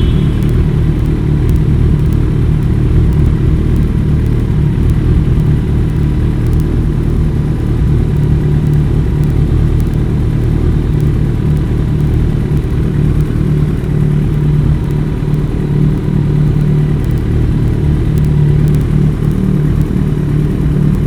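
Kawasaki ZX-14R's inline-four engine idling steadily through a Brock's Alien Head slip-on exhaust, warming up after a cold start.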